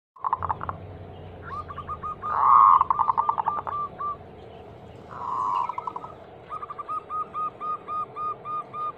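Zebra dove (perkutut) calling: rapid series of short, soft cooing notes at about five a second. Louder rolled coos come about two and a half seconds in and again just after five seconds.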